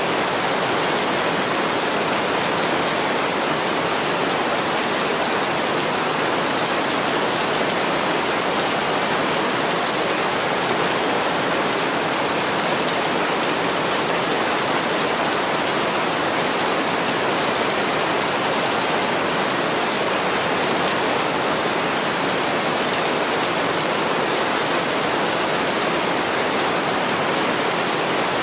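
Heavy rain pouring steadily on a window, an even, unbroken hiss.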